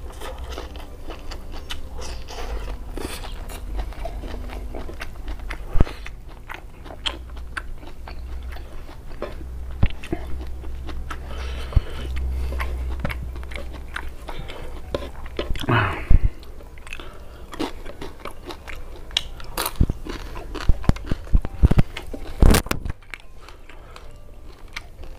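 Close-up chewing and crunching of raw leafy greens and vegetables with sambal: wet mouth sounds with many small crisp clicks and a few loud crunchy bites, the loudest about two-thirds of the way through and again shortly after.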